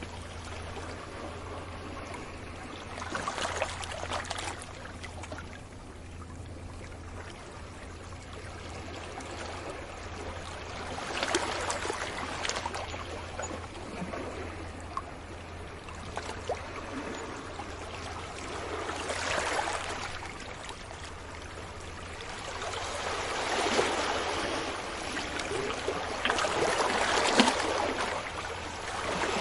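Sea waves breaking gently on a beach, each wave a swelling wash of surf that fades away, coming in every several seconds. The last waves, near the end, are the loudest.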